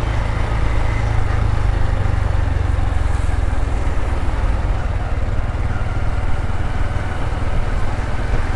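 Motorbike engine running and wind rushing past while riding along a road: a steady low rumble.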